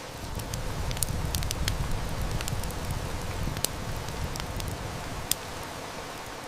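Heavy rain hissing steadily, with a wood fire crackling in sharp scattered snaps. A low rumble swells over the first few seconds and eases off about five seconds in.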